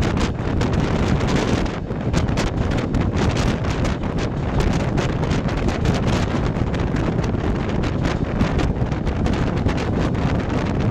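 Moving passenger train recorded from on board: a steady rumble with a quick run of clicks and knocks from the running gear, and wind buffeting the microphone.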